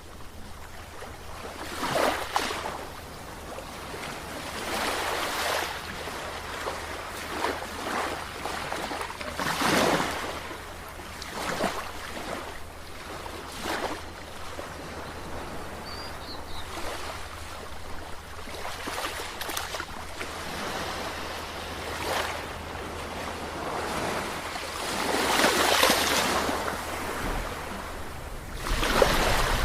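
Sea waves breaking and washing in, a steady hiss that swells into a surge every few seconds. The biggest surges come about ten seconds in and near the end. A faint steady low hum runs underneath.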